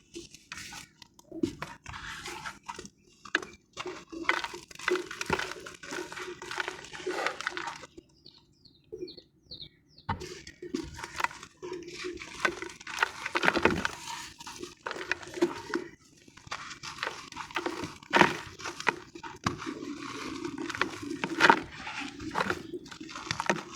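Wet sand and white cement being crushed and squished by hand: a close, dense run of crackles and crunches, with a short pause about eight seconds in.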